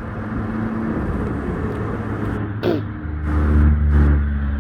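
Road traffic: a motor vehicle's engine running with a steady low hum. It grows louder about three seconds in, then eases off near the end.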